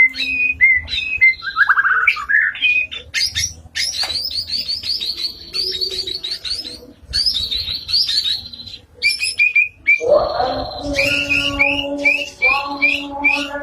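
White-rumped shama (murai batu) singing a long, varied song of whistled notes, with a fast run of rapid repeated high notes in the middle and a rising slide into lower, fuller notes after about ten seconds.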